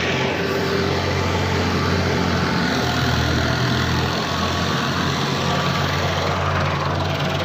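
Heavy farm machinery's diesel engine running steadily at a constant speed.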